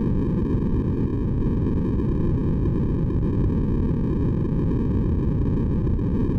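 Steady electronically generated sleep white noise. It is low and muffled, with little high hiss, and it does not change.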